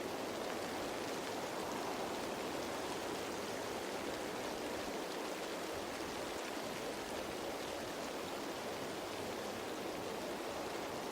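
Steady rain falling on foliage: a dense, even patter of raindrops on leaves, with no change in strength.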